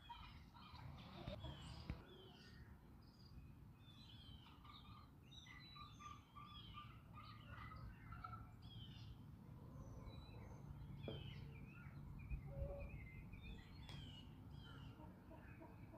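Many wild songbirds chirping and twittering all through, faint, over a steady low rumble.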